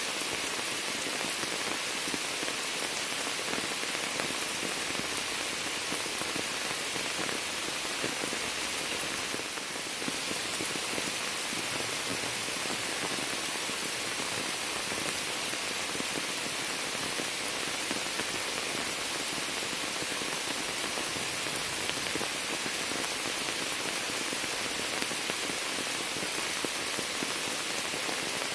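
Steady rain splashing into standing floodwater and pattering on shrub leaves, an even dense patter.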